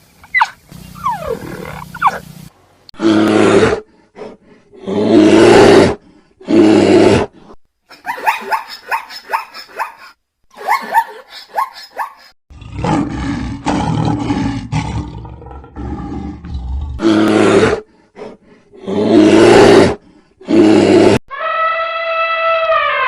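A series of loud wild-animal roars and growls, one after another with short gaps. Near the end comes a long, steady, horn-like call.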